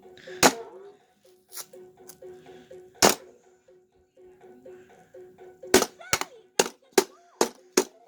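Mattel Whac-A-Mole Arcade electronic game playing its beeping tune while the moles are whacked: a sharp hit near the start and another about three seconds in, then a quick run of six hits about a third of a second apart near the end.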